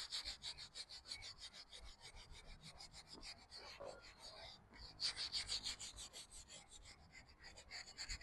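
Leather car-seat upholstery being rubbed down by hand to prep it for repainting, in quick back-and-forth scrubbing strokes, about six a second, with a brief pause a little past halfway.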